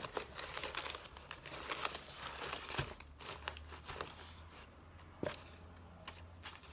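Paper rustling and crinkling in irregular bursts as magazine pages and paper clippings are handled and sorted, busiest in the first few seconds and sparser after.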